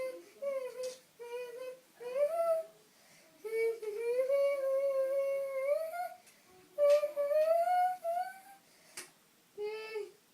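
A young boy singing a wordless tune, holding and sliding long notes in short phrases with brief pauses between them. A few faint clicks sound in between.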